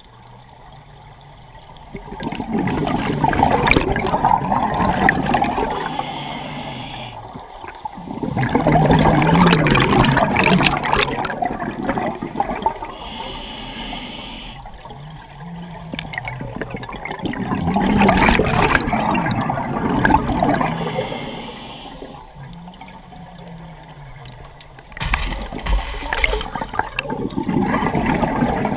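Scuba diver breathing through a regulator underwater: four long, loud rushes of exhaled bubbles about every eight seconds, with quieter stretches between.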